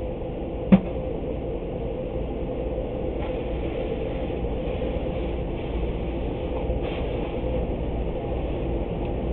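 Steady mechanical hum with a low rumble and a faint steady tone, broken by one sharp click just under a second in.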